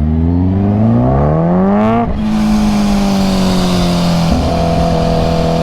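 Kawasaki Ninja H2's supercharged inline-four with a Competition Werkes exhaust, revving up through a gear with steadily rising pitch, then upshifting about two seconds in. After the shift the engine holds a steady, slightly falling note under wind rush, with another step in the note a little after four seconds.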